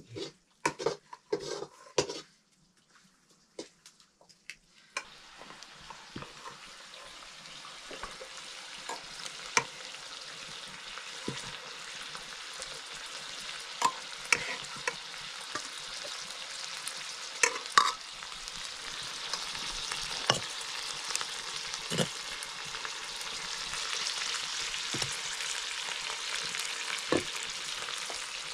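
Metal ladles clinking against steel pots, then shredded cabbage curry sizzling in a wok about five seconds in. The sizzle slowly grows louder, with a ladle tapping and scraping the pan now and then.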